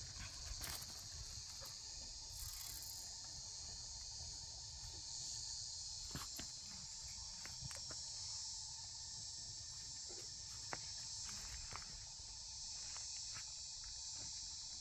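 Steady high-pitched chorus of insects chirring, with a few scattered short clicks and knocks over a low rumble.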